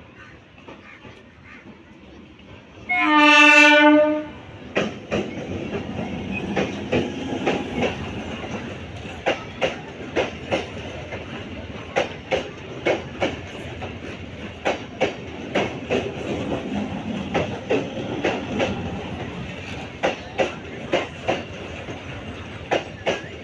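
An Indian Railways express train sounds one short horn blast about three seconds in, then passes with a steady rumble and a rhythmic clatter of wheels over the rail joints.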